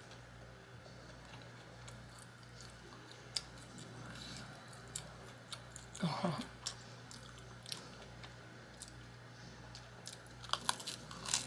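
Close-miked eating: a person chewing and biting food with small wet mouth clicks and smacks, louder in a quick cluster near the end. A brief low voiced hum comes about six seconds in.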